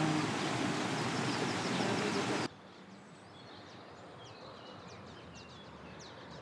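A loud, steady rushing noise with faint bird chirps above it cuts off suddenly about two and a half seconds in. After the cut, small birds chirp repeatedly over a quiet background.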